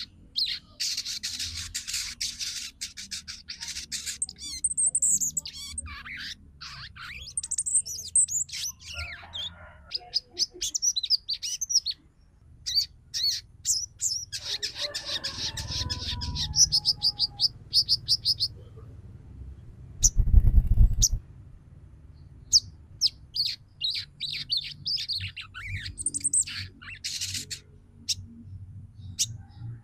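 Female sogon (a sunbird) calling to males: rapid, high twittering chirps and trills in bursts, some rising and falling, with short pauses between runs. A brief low bump about two-thirds of the way through.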